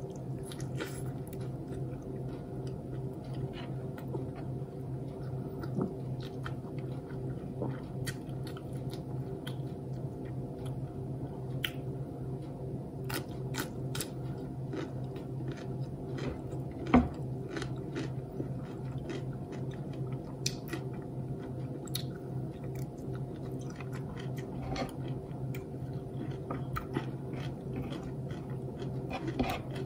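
Close-miked chewing and biting of a person eating with their fingers: many small crisp mouth clicks, one sharper click about halfway through. A steady low hum runs underneath.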